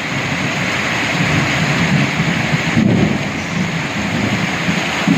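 Heavy rain pouring down, with a low rumble of thunder rolling beneath it that swells and fades through the middle.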